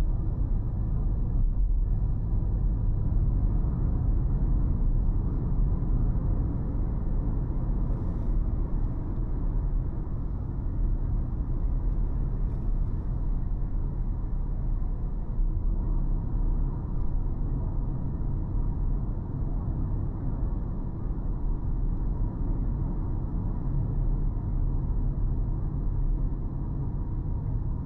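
Steady low rumble of a car driving: engine and road noise that hardly changes throughout.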